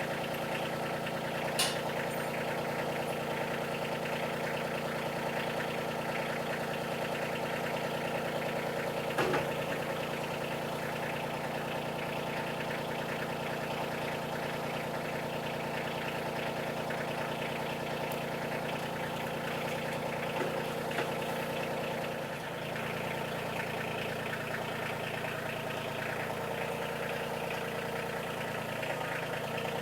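Gasoline engine of a portable sawmill running steadily, with a slight dip in level about two-thirds of the way through.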